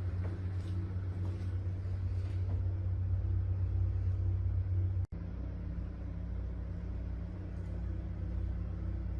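An engine running steadily with a low, even hum, cut off for an instant about five seconds in before it carries on.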